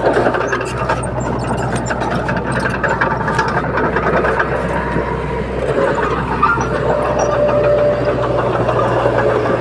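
Diesel engine of a Komatsu D31P crawler bulldozer running steadily under load. Short metallic clicks and clanks, most of them in the first few seconds, sound over the engine.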